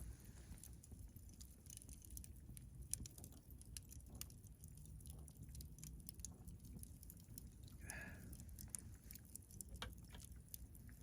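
Wood campfire crackling faintly: scattered sharp pops and snaps over a low steady rumble of the burning fire.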